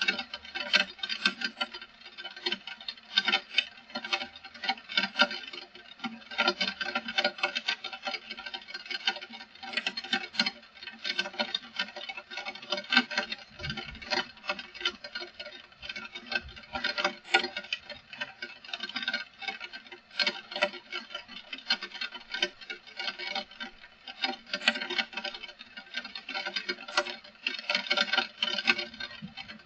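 Heavy rain pattering, a dense, unbroken stream of irregular drop impacts.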